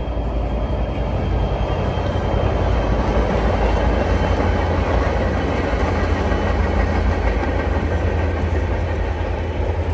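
Train hauled by NJ Transit and Morristown & Erie diesel locomotives passing at low speed, with tank cars and a passenger car in tow: a steady engine rumble with the wheels rolling on the rails. It swells over the first few seconds as the locomotives go by, then eases a little.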